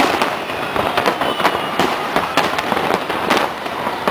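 Large aerial fireworks display: a dense, rapid string of bangs and crackles, several every second, with a faint high whistle about a second in.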